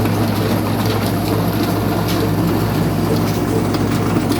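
22 hp kala engine, a slow-speed single-cylinder stationary diesel, running steadily with an even, loud low hum and faint light clicks over it.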